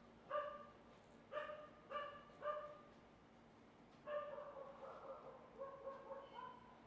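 A dog barking: four short barks in the first three seconds, then after a pause a quicker run of yelping barks that waver in pitch.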